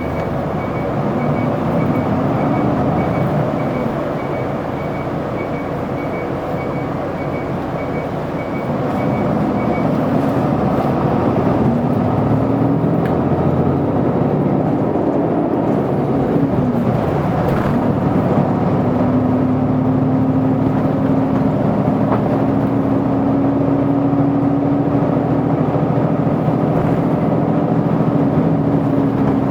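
Isuzu Erga city bus's diesel engine, heard from inside the bus, running with road noise. Its pitch climbs in steps around the middle as the bus accelerates, then settles into a steady hum while cruising. A high beeping repeats evenly during the first ten seconds or so, then stops.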